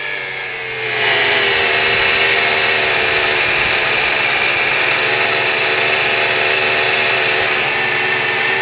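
Vehicle engine running with a weird high-pitched whine over its hum. About a second in it gets louder and then holds steady, its pitch sinking slightly.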